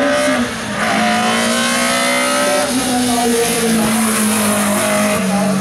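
Race car engine accelerating hard up a hill-climb course, its pitch climbing between gear changes about one and about three seconds in, then easing slightly lower.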